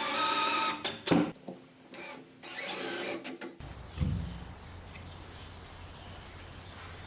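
Power drill whining, then stopping, with a few sharp clicks of handling and a brief rising rev about three seconds in; after that only a quieter steady low hum.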